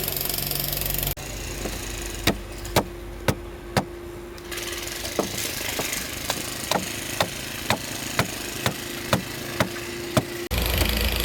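Hand tool striking hard material at about two blows a second, typical of chiselling into concrete or stone by hand, over the steady hum of an engine running in the background.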